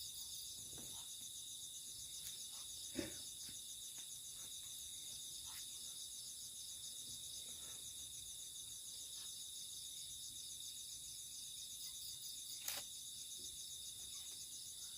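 A night chorus of crickets and other insects chirring steadily in a high, fast-pulsing drone. Two soft knocks, about three seconds in and near the end, come from things being handled.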